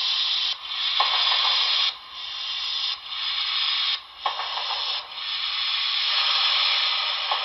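Two-way radio static from a model locomotive's sound decoder, played through its small speaker. The hiss comes in stretches about a second long, cut by short breaks, with a sharp click at some of the breaks like a squelch opening and closing.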